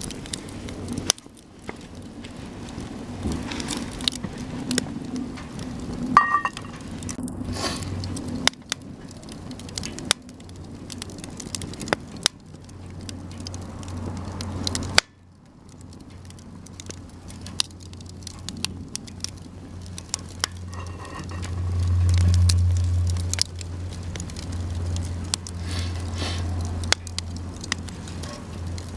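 Cedar offcuts burning in a campfire, crackling, with sharp pops scattered irregularly throughout. A low rumble swells for a couple of seconds near the end.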